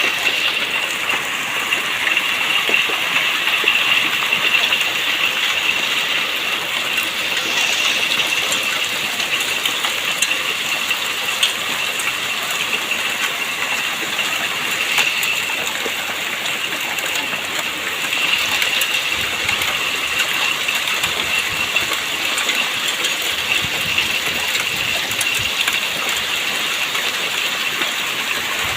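Heavy hailstorm with rain: a steady rush of falling water and hail, peppered throughout with many sharp ticks of hailstones striking hard surfaces.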